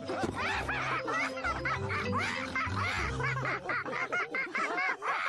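Several cartoon characters laughing together over music.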